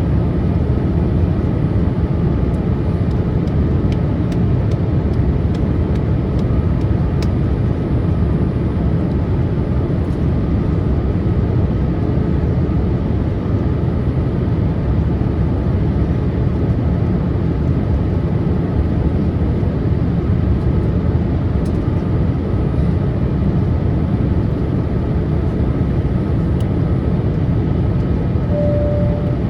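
Steady cabin noise inside a Boeing 787-8 airliner on its descent: a deep, even rush of airflow and engine noise with a faint steady whine. A brief tone sounds near the end.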